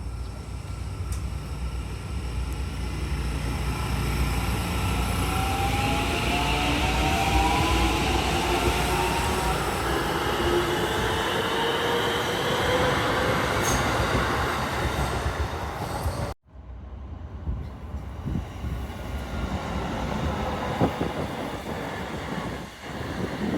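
Electric train running past at close range, a steady rumble of wheels on rail with a slowly rising whine. The sound cuts off abruptly about sixteen seconds in, and a quieter stretch of train and trackside noise with a few sharp clicks follows.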